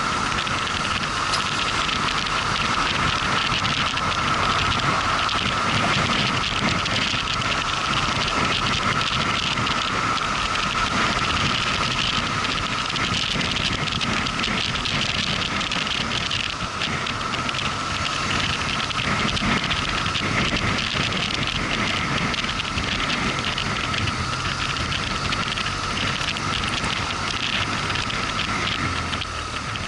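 Motorcycle on the move: a steady rush of wind and road noise with a constant whine running through it.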